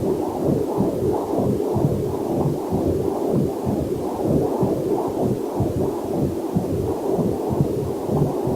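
Heartbeat picked up by a fetal Doppler monitor: a fast, even whooshing pulse of roughly two to three beats a second, with a faint waterfall sound mixed in underneath.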